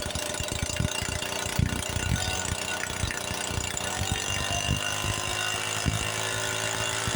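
Small two-stroke engine of a string-trimmer chainsaw running steadily, with an irregular mechanical clatter over its hum.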